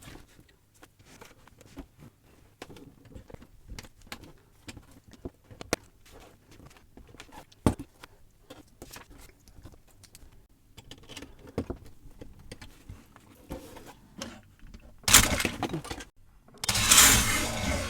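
Plastic building bricks being handled and pressed together: scattered small clicks and snaps. Near the end come two loud bursts of clattering as part of the half-built brick car comes apart and the pieces fall and scatter.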